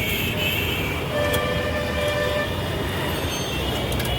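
Street traffic rumbling with vehicle horns sounding: a high horn right at the start, then a longer, lower horn from about a second in.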